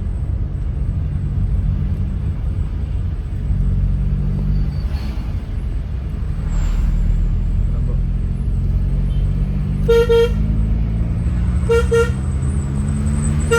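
TNSTC bus's diesel engine labouring uphill in gear, a loud steady drone whose pitch slowly rises over the second half. A horn sounds in two quick double toots about ten and twelve seconds in, and once more at the end.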